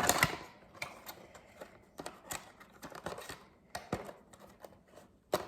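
Irregular clicks, taps and light rustles of small items and packaging being handled and set down, with the sharpest clicks near the start and just before the end.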